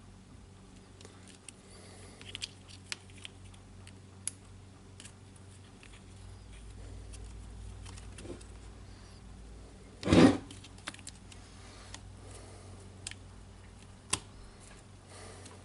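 Small clicks and light rattles of parts being handled while brush holders and their wires are fitted into a power tool's housing, with one louder knock about ten seconds in and a sharp click near the end.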